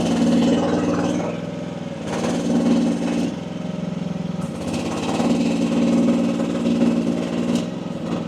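AGT WH12R mini excavator's engine running as the hydraulics are worked: the sound swells and gets louder three times, in the first second, around two to three seconds in and for a longer stretch after five seconds, with a few sharp knocks in between.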